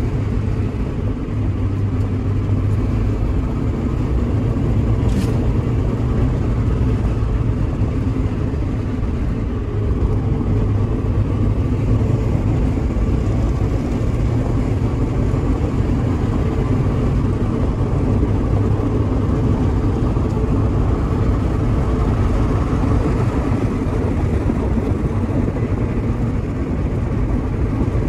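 Mazda MX-5 NB's four-cylinder engine running steadily under way, with tyre and road noise, heard from inside the cabin.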